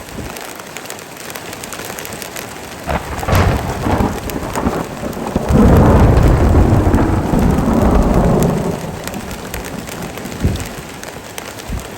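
Heavy rain falling steadily while a long roll of thunder rumbles, building a few seconds in, loudest around the middle, then dying away.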